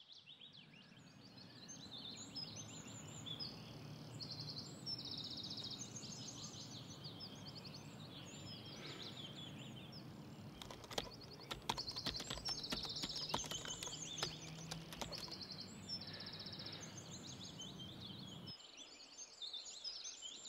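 Several songbirds chirping and singing in short repeated trills, over a low steady rumble that stops near the end. A cluster of sharp clicks comes in the middle.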